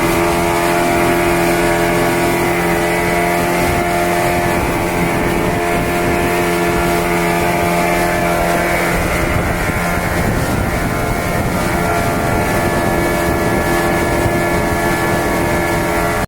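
Speedboat engine running steadily at speed, with wind noise over the microphone.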